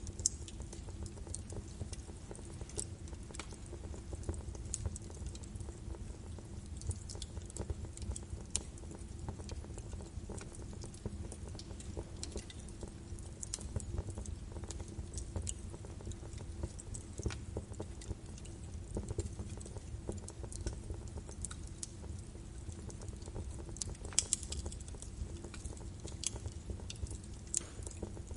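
Birch wood fire burning in a fireplace: a steady low rumble of flame with scattered sharp crackles and pops, a brief flurry of louder pops about 24 seconds in.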